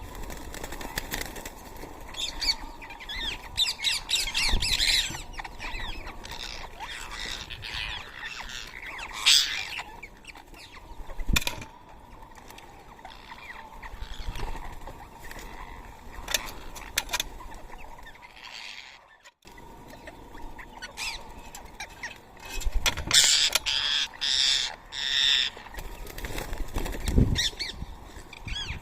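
A flock of rose-ringed parakeets giving sharp screeches and chirps, mixed with wing flaps and small knocks, busiest in two bursts early and late.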